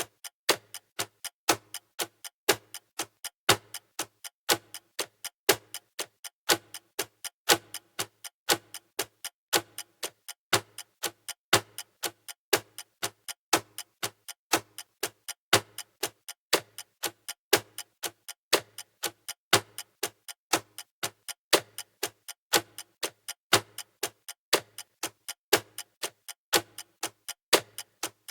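Steady clock-style ticking of a countdown timer, about two sharp ticks a second in an even, unbroken rhythm.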